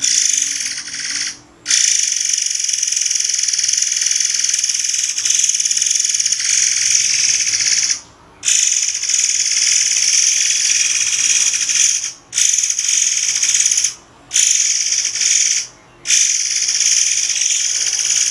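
Murai air bird singing a shrill, high-pitched hissing song in long runs of several seconds, broken by short pauses about every two to six seconds.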